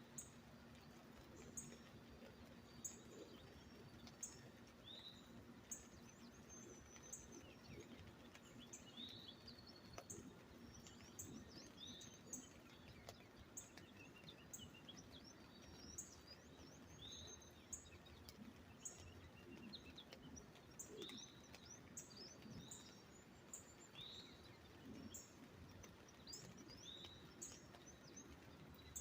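Birds chirping softly: a short high call repeating about once a second, with other arched chirps every couple of seconds over a faint background hiss.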